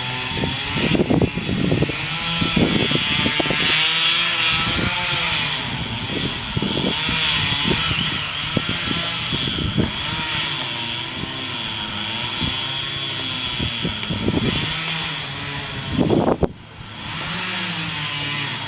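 Two-stroke chainsaw engine running, its speed rising and falling, with scattered sharp knocks; it drops away briefly about three-quarters of the way through.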